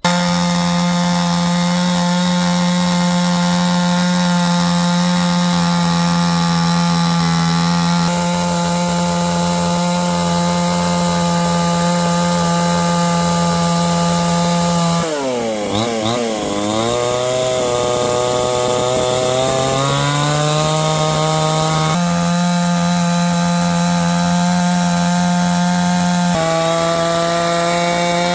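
Chainsaw running at high throttle, a steady high engine note. About halfway through, the engine speed sags and wavers for a few seconds, as under load in a cut, then climbs back to full speed.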